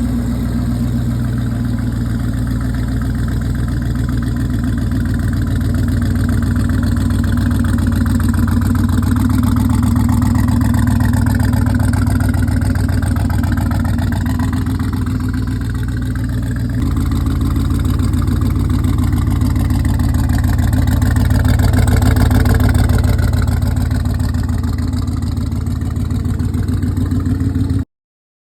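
Twin-turbocharged, supercharged Hellcat Hemi V8 in a Dodge Dart, running steadily near idle with slow, gentle swells in level. The sound cuts off suddenly near the end.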